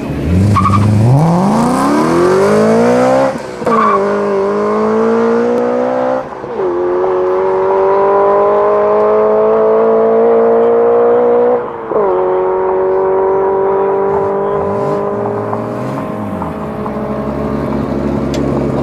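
BMW 3 Series sedan accelerating hard from a standing start at full throttle. The engine note climbs steeply, then drops briefly at each of three upshifts, about three, six and twelve seconds in. After the last shift it fades as the car pulls away into the distance.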